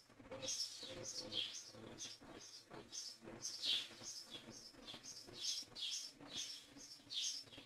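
Bird chirping, short high calls repeating about two or three times a second, some of them falling in pitch.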